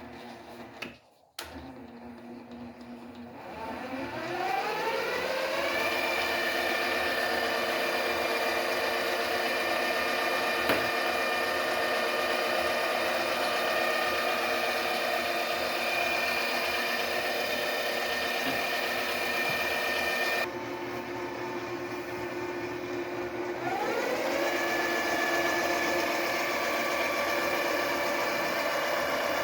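Mini lathe's new motor spinning up on its speed controller: a whine rising in pitch over about two seconds, then running steady. About two-thirds through it drops to a lower speed for a few seconds, then climbs back up and runs steady again.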